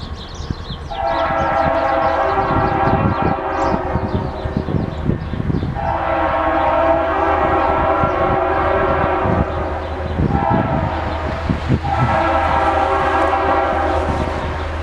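Diesel freight locomotive horn sounding the grade-crossing signal: two long blasts, one short, one long, over the low rumble of the locomotives' diesel engines.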